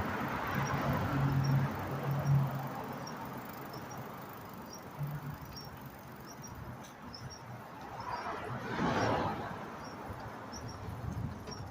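Outdoor road noise with a vehicle passing, its rushing sound rising and falling about eight seconds in, and faint high ticks repeating about twice a second throughout.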